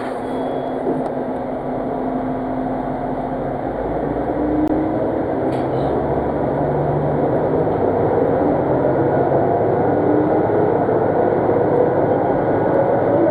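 Diesel railcar heard from inside the passenger cabin as it pulls away from a station, its engine note rising steadily as it gathers speed over the steady running noise of the train.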